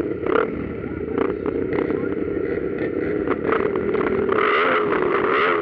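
Motocross dirt bike engines racing, their pitch rising and falling repeatedly as the riders rev up and back off, with distortion from an overloaded microphone.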